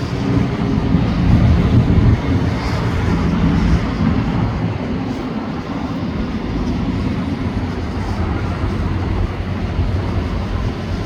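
Fireworks display heard as a continuous low rumble of booms running together, with no single sharp bang standing out.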